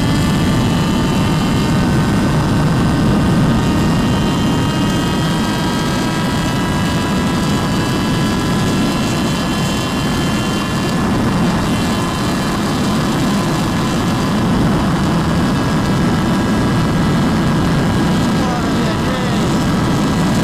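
Motorcycle engine running at high revs at speed, its pitch climbing slowly for about ten seconds and then holding, under heavy wind rush.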